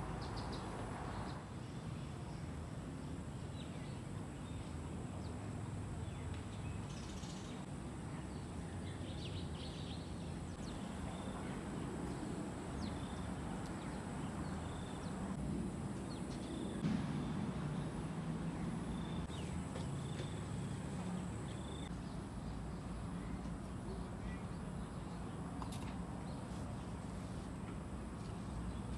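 Outdoor ambience: a steady low background rumble with scattered short bird chirps, mostly in the middle of the stretch.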